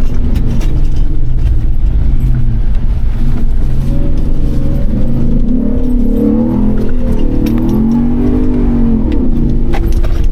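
First-generation Ford Raptor's V8 engine revving up and down as the truck is driven hard over a dirt track, under a steady low rumble from the tyres and drivetrain. Scattered knocks from the truck on the rough ground run through it.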